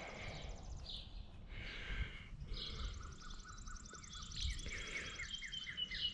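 Songbirds singing in the background: a fast, high trill, and from about halfway through a run of quick repeated chirps, over a low outdoor rumble.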